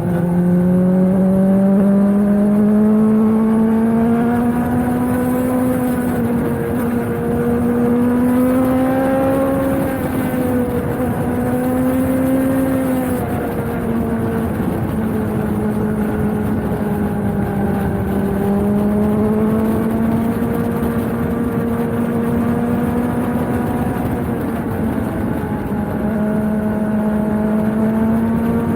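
Suzuki GSX-S 750's inline-four engine through a Yoshimura slip-on exhaust, under way at steady mid revs. The pitch climbs slowly over the first ten seconds or so, dips a little around halfway, then rises and eases again as the throttle is worked gently.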